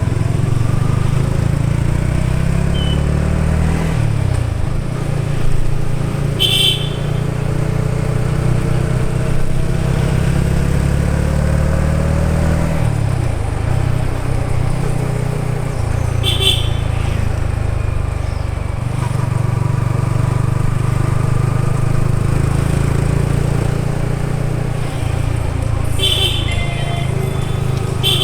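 Yamaha XSR 155's single-cylinder engine running, its pitch rising and falling as it revs. Short high beeps come in about every ten seconds.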